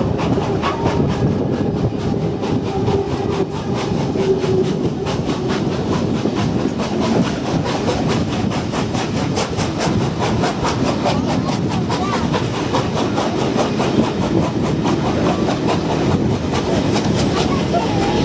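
Heritage train running at speed: a steady rumble with fast, regular clicking throughout.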